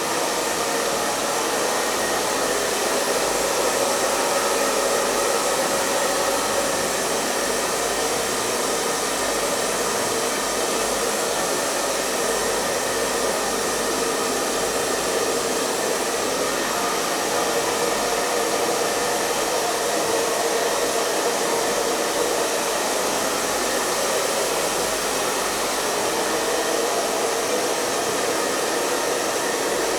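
Electric hair dryer running continuously on a steady setting: an even rushing of blown air with a faint motor hum, unchanging in level.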